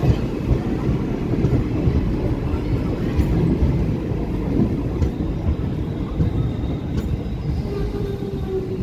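Passenger train rolling very slowly into a station: a steady low rumble of wheels on the track.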